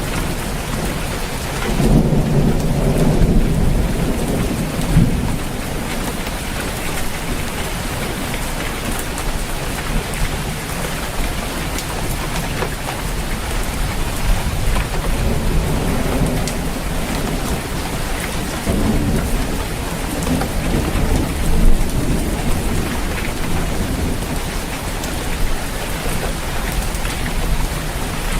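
Steady rain falling on a roof, with thunder rumbling low several times: a long roll about two seconds in, and further rumbles in the second half, the loudest crack near the end.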